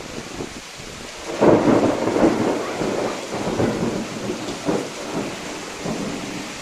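Steady heavy rain, then a thunderclap about a second and a half in that breaks out suddenly and rolls on in uneven rumbles for several seconds as it fades.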